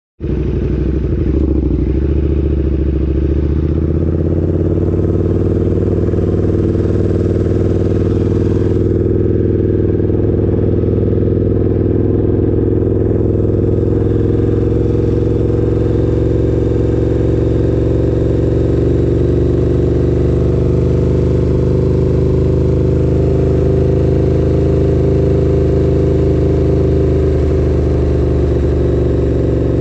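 KTM 1290 Super Duke's V-twin engine running at a steady speed, its pitch rising a little about four seconds in and then holding even.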